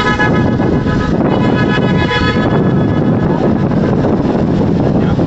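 A horn sounds one long steady note, cutting off about two and a half seconds in, over loud rumbling engine and wind noise.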